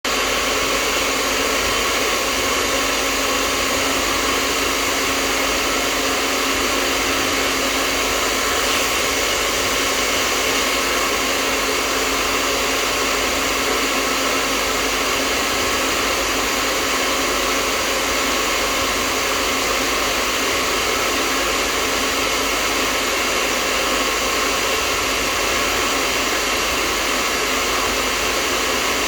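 Hair dryer running steadily: an even, unbroken rush of air with a faint motor hum under it.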